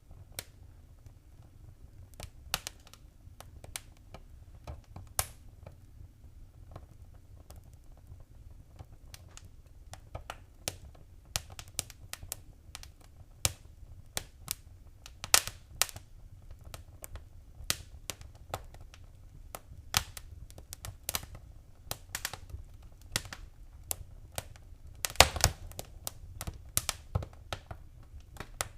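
Wood fire crackling in a fireplace: irregular sharp pops and snaps that come more often after about ten seconds, with a loud cluster of pops near the end, over a low steady rumble.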